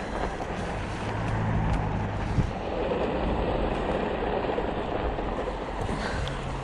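Fat-tire e-bike riding over snowy paths: a steady rolling noise from the tyres, with a low hum that comes and goes.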